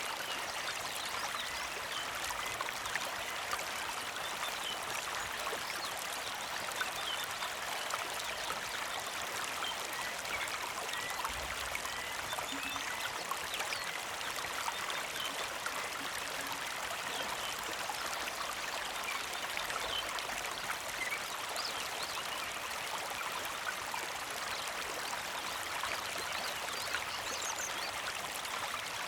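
Small creek flowing with a steady, even trickle and babble of water.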